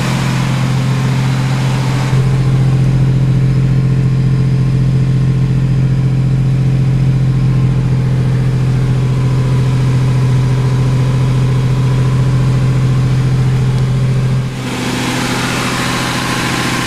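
1991 GMC Sonoma's 4.3-litre V6 running steadily on its first start after standing for months, at the raised revs of a cold engine. The note gets louder about two seconds in and drops in level near the end.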